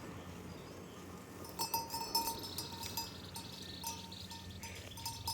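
Livestock bells clinking irregularly as the animals move, starting about one and a half seconds in, over a low steady hum.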